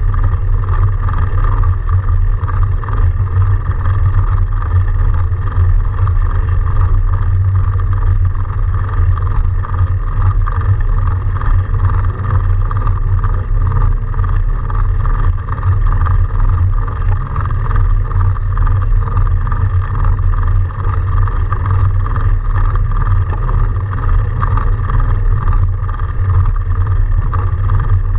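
Steady riding noise from a fat-tyre electric-assist bicycle moving through snow: a heavy, continuous low rumble with a steady whine above it, with no break or change.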